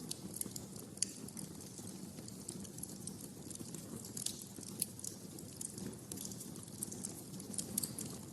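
Wood fire burning in a fireplace: irregular sharp crackles and pops over a steady low rumble of flames, with a sharper pop about a second in.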